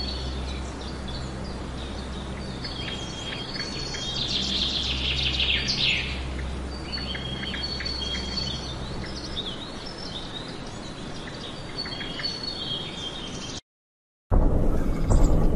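Birds chirping and calling, with short high whistled notes repeating and a louder falling call about five seconds in, over a steady low hum. Near the end the sound drops out for a moment, then a louder background starts.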